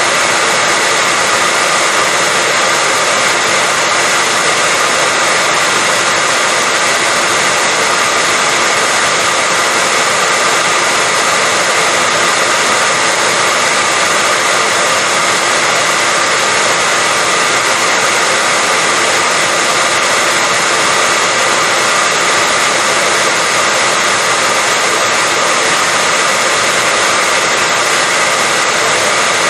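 Hair dryer blowing steadily: a constant loud whooshing hiss with a faint high motor whine, unchanging throughout.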